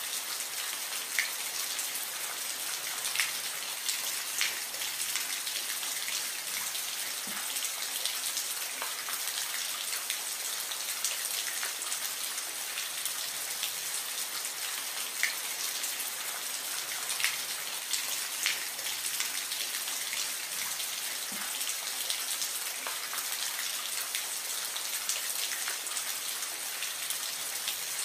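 Soft, steady rain: an even hiss of falling rain, with single louder drops ticking now and then, about every second or two.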